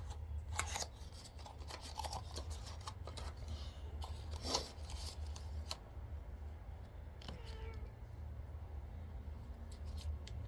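Domestic cat meowing a few times, short separate calls, begging while its food is being prepared. Light clicks and taps sound in between, over a steady low hum.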